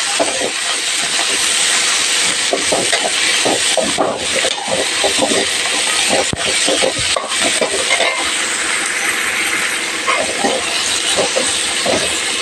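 Garlic, onions, crushed ginger, curry leaves and coriander leaves sizzling as they fry in a pan, with a steady hiss broken by the short scrapes and clicks of a spoon stirring them.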